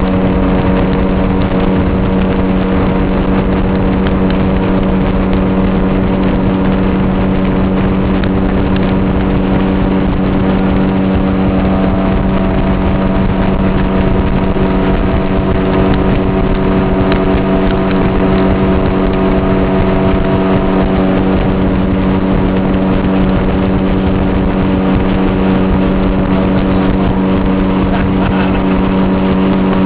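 Boat motor running steadily at cruising speed, an even engine drone over a constant rush of noise, with no change in speed.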